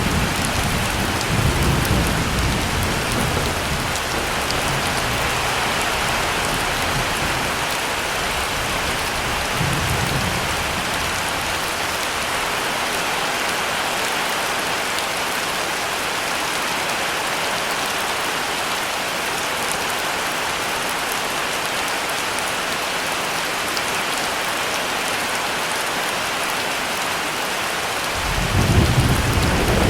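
Heavy rain falling in a steady, dense hiss. Thunder rumbles low at the start and fades out over the first ten seconds or so, and a new roll of thunder begins near the end.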